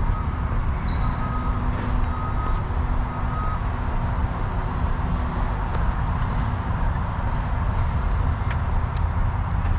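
Steady low rumble of outdoor noise, with a faint high beep repeating about once a second for the first few seconds.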